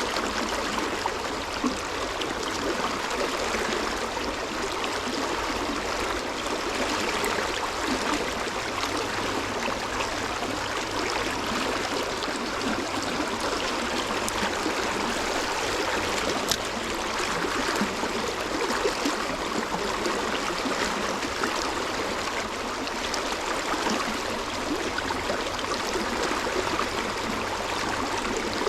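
Flowing stream water: a steady, unbroken rush.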